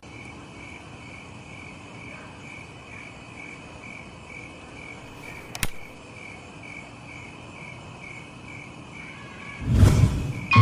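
An insect chirping steadily at about two chirps a second. There is a sharp click about five and a half seconds in, and a loud rustling thump near the end.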